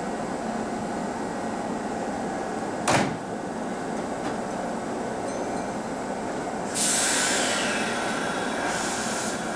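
A Kintetsu limited express electric train standing at the platform with a steady hum; about three seconds in, the conductor's cab door slams shut with one sharp knock. Near the end, a sudden loud hiss of compressed air begins and slowly fades: the brakes releasing as the train gets ready to depart.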